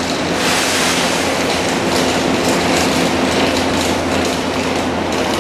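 115-series electric train making a steady low hum and rumble, with a brief hiss about half a second in.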